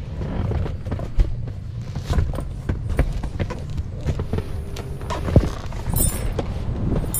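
Strong wind buffeting the microphone with a steady low rumble, with scattered short knocks and clicks on top.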